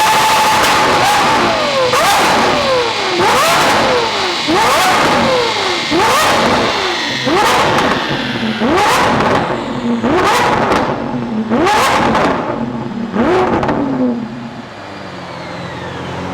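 Lamborghini Aventador V12 with an aftermarket exhaust winding down on a chassis dyno after a full-throttle pull. Again and again, about every second and a half, the revs fall and then jump back up with a sharp crack as the gearbox downshifts. Near the end it settles to a lower, steady running note.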